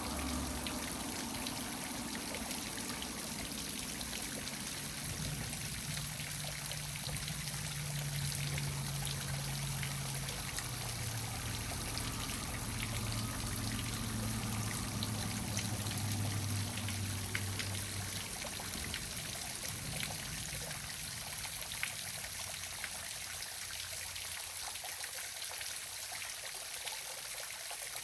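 Waterfall splashing and trickling steadily. A faint low hum sits under the water for a while in the middle and drops in pitch before fading.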